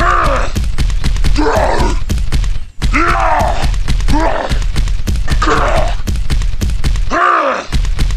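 Repeated straining groans from a deep voice, each rising then falling in pitch, roughly one every second, over a steady low thumping beat.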